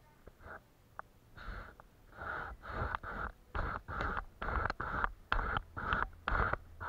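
Paintbrush stroking across paper in short repeated strokes, about two a second, starting after a brief pause.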